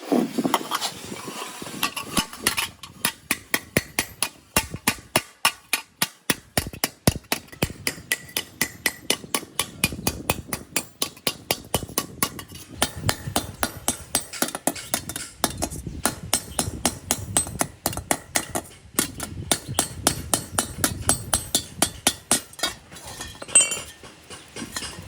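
A hammer striking metal in a quick, steady run of blows, a few a second, each with a short clinking ring.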